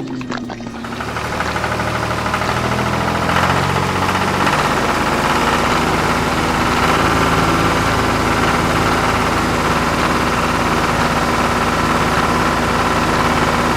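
Vehicle engine running steadily, getting louder over the first couple of seconds and then holding.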